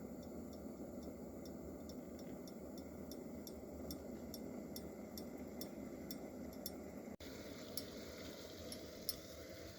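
Canned stew heating over a campfire: faint crackling and small sharp ticks, about two or three a second, over a low steady hiss. The ticks grow fewer but louder after a short break about seven seconds in.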